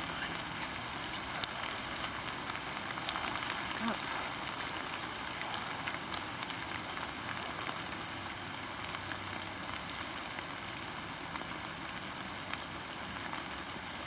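Steady cold rain pattering down, an even hiss with scattered sharp ticks of individual drops striking nearby surfaces.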